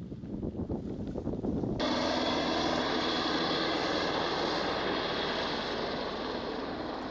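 Wind buffeting the microphone, then an abrupt cut about two seconds in to the loud, steady drone of an aircraft engine, with a low hum under a wide rushing noise.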